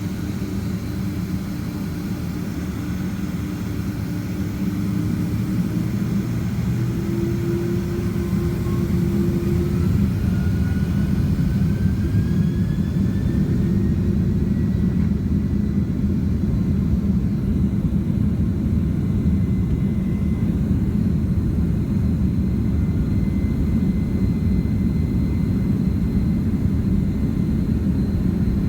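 Boeing 767-300ER jet engines heard from inside the cabin, spooling up: a whine rises in pitch over several seconds and then holds steady, while the deep engine rumble grows louder and stays up.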